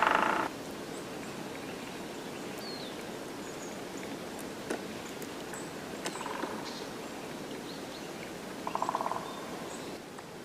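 Forest ambience with faint high chirps of small birds. A loud half-second sound at the very start, then near the end a woodpecker drumming: one short, very fast roll of about a dozen strikes, with a fainter roll a few seconds before it.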